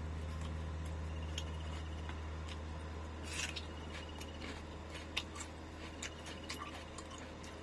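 Light, scattered clicks, taps and one short rustling scrape of cooking work, such as cutting or handling an onion with a knife and kitchen utensils, over a steady low hum.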